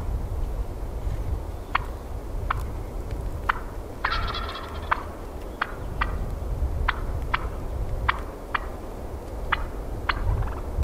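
Wild turkey tom gobbling once, a rapid warbling call of about a second, some four seconds in, amid a dozen short sharp ticks and a low rumble of wind.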